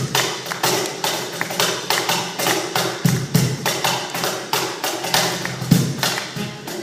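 Music from a Tsugaru shamisen and percussion ensemble: a fast, unbroken run of sharp, percussive strikes.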